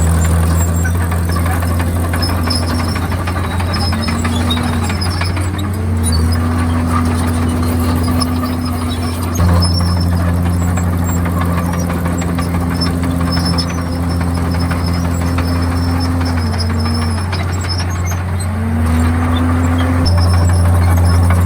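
Komatsu D51PX bulldozer's diesel engine running steadily under load, its pitch dipping briefly and recovering several times as the load comes and goes.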